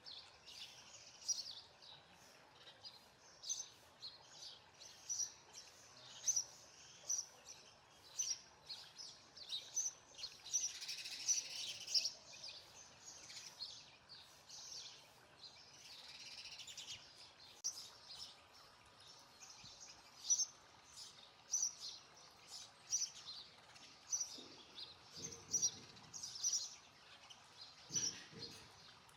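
Sparrows chirping: a steady run of short, high chirps, several a second, with a brief lower-pitched sound twice near the end.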